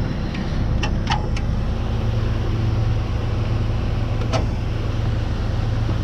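A truck engine running steadily with a low rumble that grows a little stronger about two seconds in. Short hissing ticks from lawn sprinklers cut in about a second in and again past four seconds.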